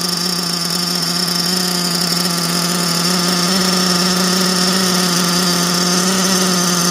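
Nova T6R nitro engine of a Mugen MBX8TR RC truggy running steadily at one constant speed, its first run after a bad glow igniter was replaced.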